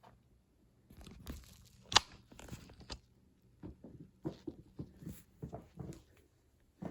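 Handling noises: irregular clicks and rustles, with one sharp knock about two seconds in, over a faint low hum.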